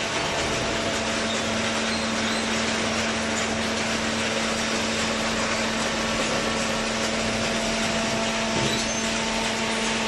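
Industrial hydraulic cardboard baler running: an even mechanical noise with a steady motor hum.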